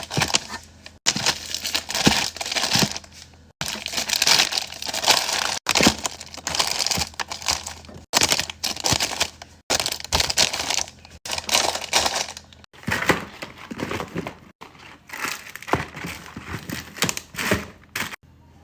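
Plastic packaging crinkling and rustling as snacks and drinks are unpacked and set in place, with sharp clicks and knocks among the rustle. The sound cuts off abruptly every couple of seconds, a run of short clips joined together.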